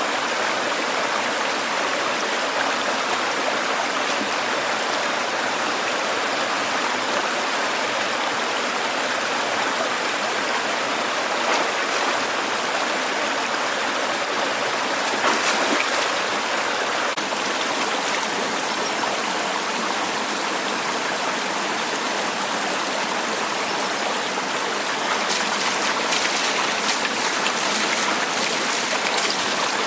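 Steady rush of flowing water, with scattered faint ticks near the end.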